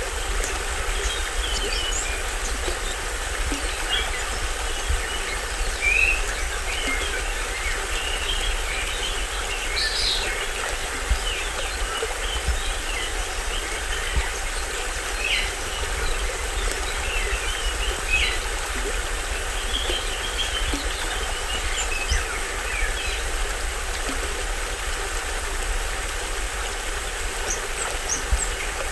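Small waterfall and stream rushing steadily, with tropical forest birds chirping and calling in short scattered notes over the top.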